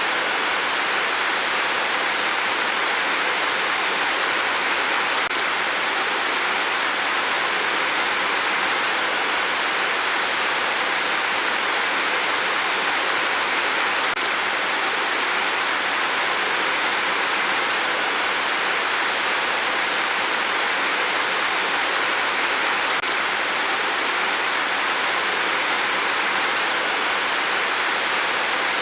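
Steady rain with wind: a continuous, even hiss with no single drops or gusts standing out.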